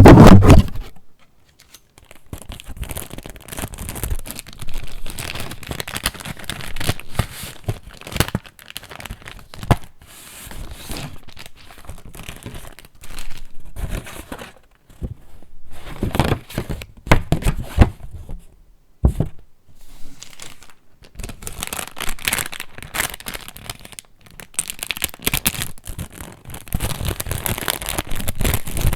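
Paper pages of a handmade junk journal being handled and turned, with irregular rustling and crinkling that comes and goes in bursts, loudest right at the start.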